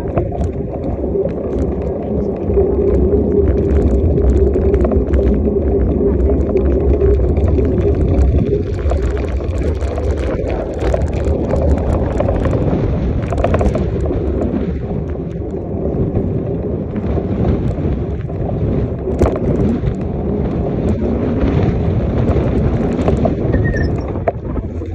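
Wind rushing over the microphone of a moving bicycle: a steady low rumble, with scattered small clicks and rattles through it.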